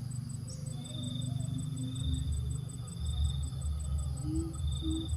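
Insects trilling: one steady, fast-pulsing high trill with a second trill coming and going in stretches of about a second, over a low rumble.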